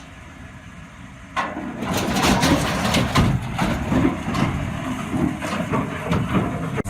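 A faint low hum, then about a second and a half in a loud, rough vehicle noise starts suddenly and carries on, with irregular knocks and clatter through it.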